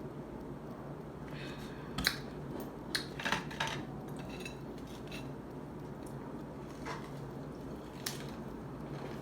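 Scattered clicks and taps of eating utensils against a plate: a sharp one about two seconds in, a quick cluster around three seconds and another near the end, over a steady low hum.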